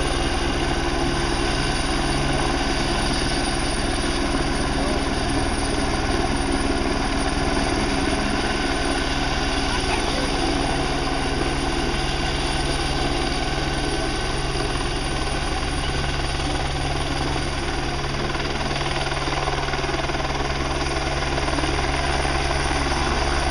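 Helicopter rotors and turbine engine running steadily overhead, a continuous chopping drone with a low hum.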